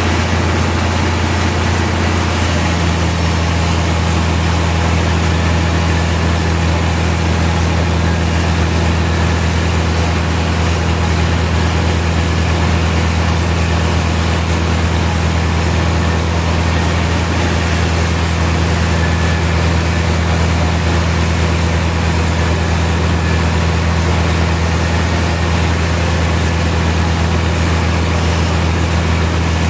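Sawmill machinery running steadily: a loud, constant engine hum with mechanical noise over it. The pitch shifts slightly about two seconds in, then holds steady again.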